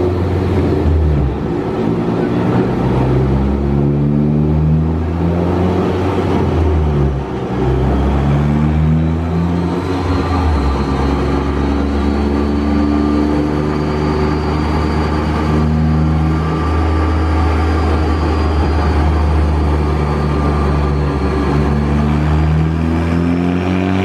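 Big-turbo Ford Focus ST's turbocharged 2.0-litre EcoBoost four-cylinder running on a chassis dyno for a power pull, held steady for most of the time with a faint whine slowly rising in pitch. Near the end the engine note starts climbing steeply as the revs sweep up under load.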